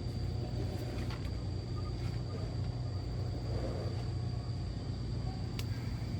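A vehicle engine idling steadily as a low, even rumble, with a steady high-pitched insect drone over it.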